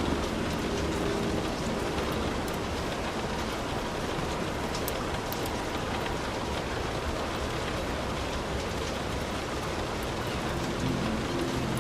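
Heavy rain falling steadily on a hut's roof, an even wash of sound with scattered sharp drop ticks. A low rumble is present briefly at the start and comes back near the end.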